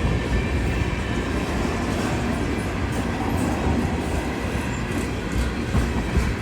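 Train passing on the rails: a steady low rumble of wheels and cars rolling by, with faint wheel clicks near the end.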